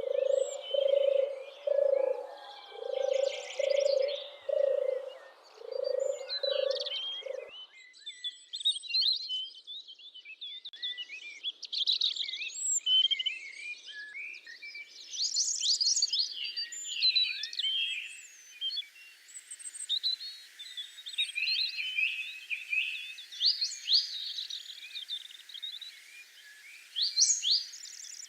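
Many small songbirds chirping and twittering. For the first seven or so seconds a low call repeats evenly about once a second underneath, then stops abruptly; the chirping grows busier in the second half.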